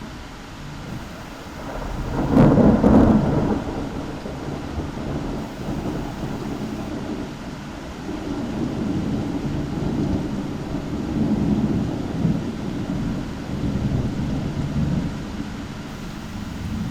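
Thunder: a sharp crack about two seconds in, followed by a long rolling rumble that swells and fades several times.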